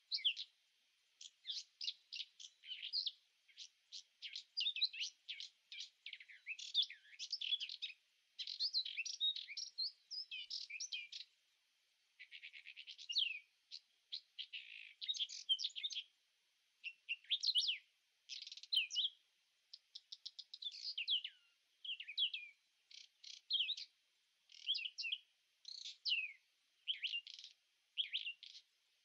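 Birds singing: a continuous run of quick, varied chirps and whistles, with a fast trill about twelve seconds in.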